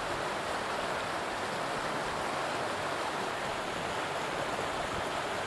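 Steady rushing of a river, an even wash of water noise without breaks.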